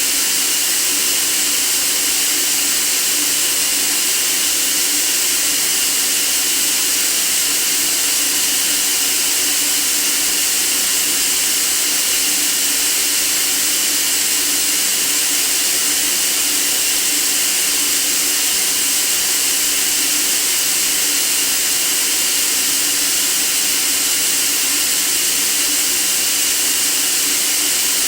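Steady white noise: an even, unbroken hiss, strongest in the highs, with no changes or events.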